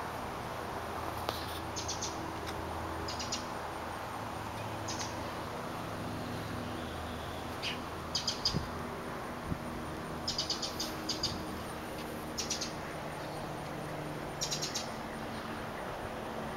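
Small birds chirping in short, rapid high-pitched bursts every second or two, over steady background noise.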